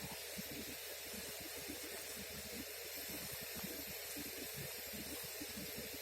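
Steady outdoor background hiss with faint, irregular low rumbling.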